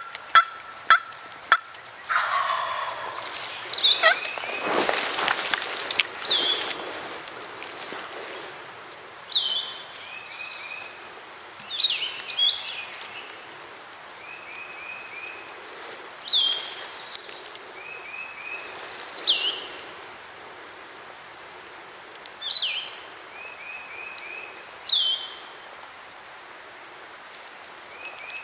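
Wild turkey gobbling over and over, a short rattling call that comes about every three seconds. A few sharp clicks at the start and a louder, rougher stretch in the first several seconds.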